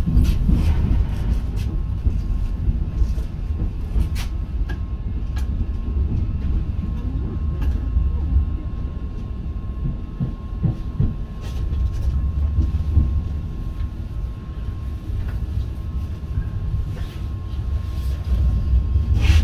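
Passenger train running, heard from inside the carriage: a steady low rumble of the wheels on the rails, with scattered sharp clicks and a faint steady whine.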